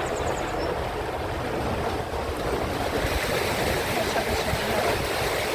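Steady rush of water and wind from a canal tour boat under way, with a low rumble underneath; the hiss grows brighter about three seconds in.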